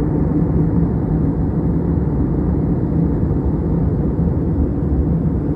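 Airliner cabin noise heard from inside: a steady low roar of engines and rushing air, with a faint constant hum.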